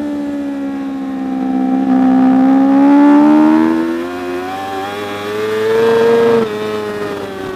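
Superbike racing motorcycle engine running hard at high revs, its pitch sagging slightly and then climbing steadily for several seconds before dropping suddenly near the end.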